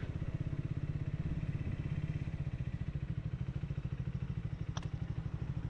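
Triumph Speed 400's single-cylinder engine running steadily, a low, even pulsing beat that holds the same pace throughout.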